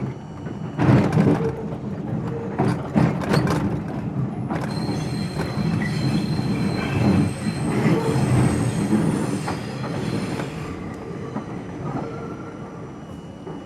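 R42 subway train running on steel rails, with sharp knocks over rail joints in the first four seconds. A high, steady wheel squeal sets in about four and a half seconds in and weakens about ten seconds in.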